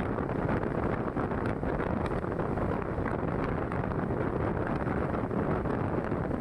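Mayiladuthurai–Mysuru Express running at speed: a steady rumble and rush of noise with wind buffeting the microphone.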